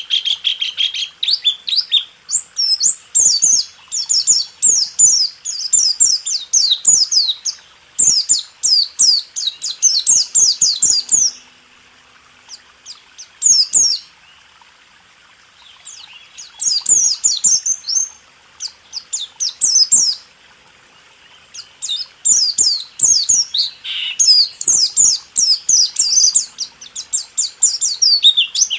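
White-eye (pleci) singing its rolling 'tembak' song: fast runs of high chirping notes in bouts several seconds long, with short pauses about twelve and twenty seconds in.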